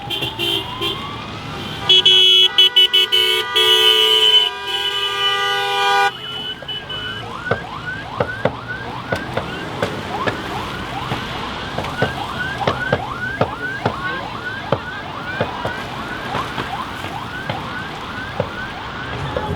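Emergency vehicle siren. It gives a slow rising-and-falling wail, then about four seconds of loud horn blasts, then switches to a fast yelp of rapid sweeps, about two a second.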